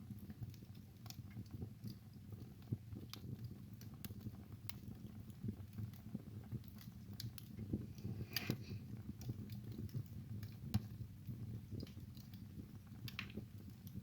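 Wood fire burning in a fireplace: irregular crackles and pops over a low, steady rumble of the flames, with a brief hiss about eight seconds in.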